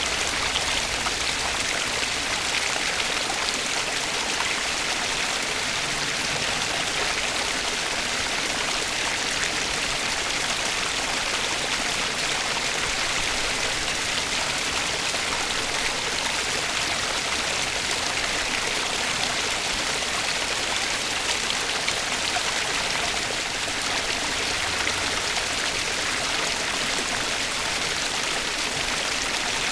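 Flowing stream water: a steady, even rush without pause or change.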